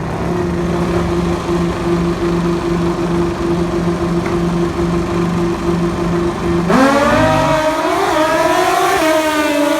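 Racing motorcycle engine held at steady revs with a pulsing note. About seven seconds in it revs up sharply, climbing in pitch with drops at each gear change as it accelerates away.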